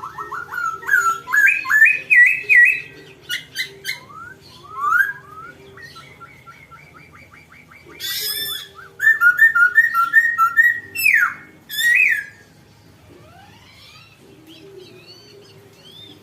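A songbird singing a varied song of whistles, gliding notes and quick trills in phrases with pauses between them. The busiest, loudest stretch of rapid chattering notes comes around the middle, and the song falls quiet near the end.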